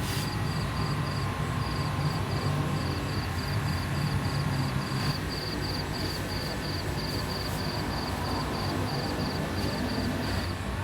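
Outdoor night ambience: an insect chirping in short, high pulses, about three a second, over a steady low hum.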